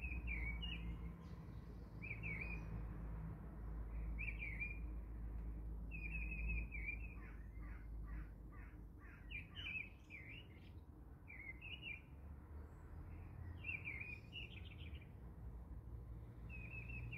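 Birds chirping in short repeated phrases every second or two, with a faster run of chirps around the middle, over a low steady hum.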